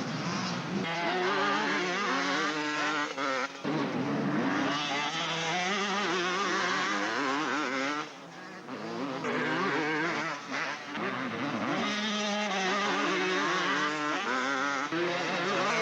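Several motocross motorcycles racing, their engines revving up and down in overlapping, wavering pitches as they pass, with a short lull about eight seconds in.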